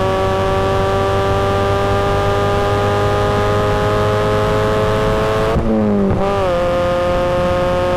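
Supercharged Mazda Miata's four-cylinder engine pulling under acceleration, its pitch climbing steadily. About five and a half seconds in, a quick upshift drops the pitch, and then it starts climbing again.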